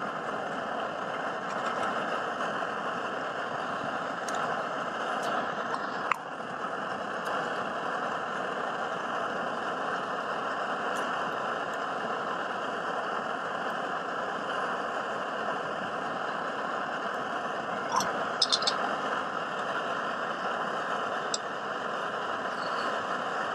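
Camp stove burner running with a steady rushing hiss while breakfast heats, with a few short sharp clicks about six seconds in and a quick cluster of them around eighteen seconds in.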